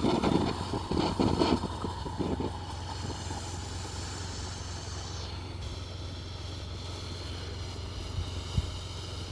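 A firework crackling and popping as it dies out over the first two and a half seconds. Then a steady low hum is left, with one sharp pop near the end.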